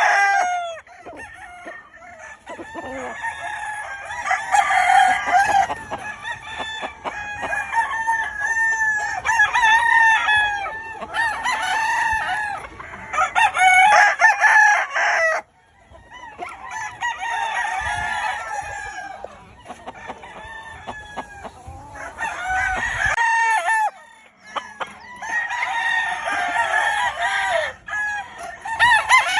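Many roosters crowing over one another, one call overlapping the next, with hen clucking underneath. The sound cuts off abruptly twice, once about halfway through and again about two-thirds of the way in.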